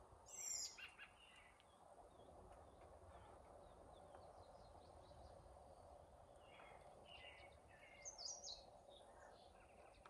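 Faint songbirds chirping in short phrases over a steady background hiss. The calls are clearest just after the start and again about two-thirds of the way through.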